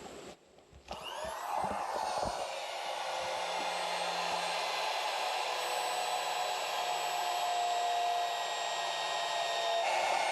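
Freshly primed electric water pump switched on about a second in. It spins up with a rising whine, then runs with a steady whirring hum.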